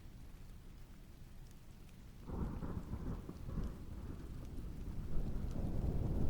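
Thunder rumbling over steady rain: a low rumble breaks in suddenly about two seconds in and keeps building toward the end, while fine raindrop patter runs underneath.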